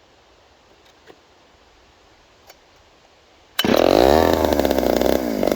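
Poulan 306A two-stroke chainsaw catching suddenly about three and a half seconds in and running loudly, its pitch sliding down and back up as it revs unevenly, with the choke still pulled out.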